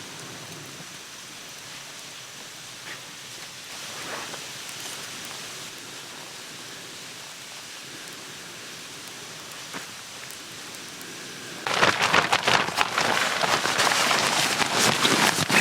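Quiet outdoor background hiss with a few faint ticks, then, about three quarters of the way through, a loud, dense crackling with many sharp pops starts suddenly: a wood campfire burning.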